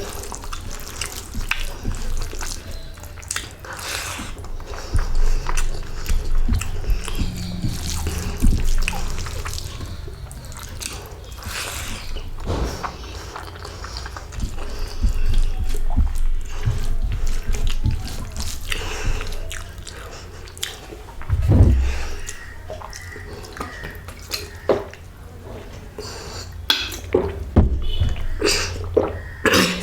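Close-miked wet chewing and lip-smacking of someone eating rice with fish curry, a string of irregular sticky clicks and small squelches.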